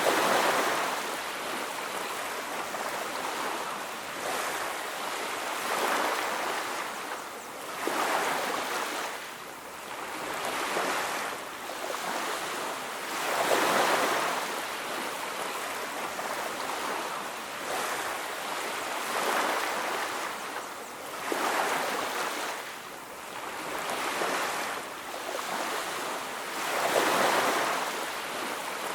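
Ocean surf washing onto a beach: waves break and recede one after another, swelling every few seconds over a constant rush of water.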